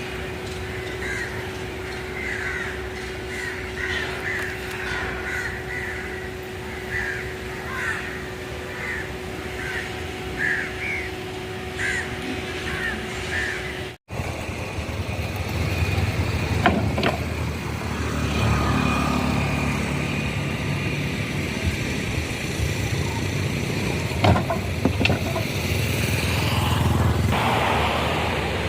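A bird calling over and over, about twice a second, over a steady mechanical hum. About halfway through the sound cuts to the low rumble of a heavy engine running, with a few sharp knocks.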